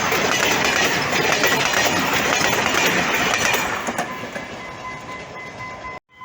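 Passenger train running past, loud at first and then fading away from about four seconds in, with a faint steady tone left as it recedes. The sound cuts off abruptly near the end.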